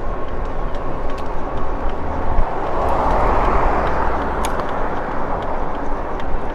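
Riding noise from an e-bike on a rough, uneven sidewalk: wind rushing over the microphone and a low rumble from the tyres, with scattered small rattling clicks. A louder whoosh swells about three seconds in and fades by about five seconds.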